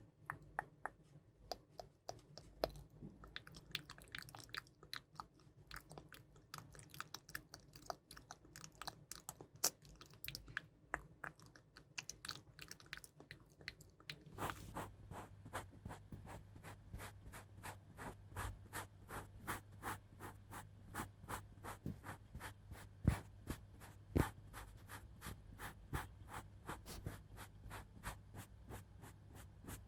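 Close-miked ASMR trigger sounds: dense, soft crackly clicks and taps. About halfway through they settle into a steady run of about three taps a second over a low hum.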